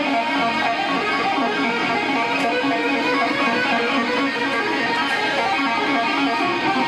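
Electric guitar solo played live: sustained, overdriven lead lines, thin and lacking bass in a poor-quality recording.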